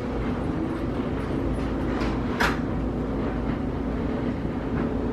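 Steady engine and road rumble inside a moving car, with one short click about halfway through.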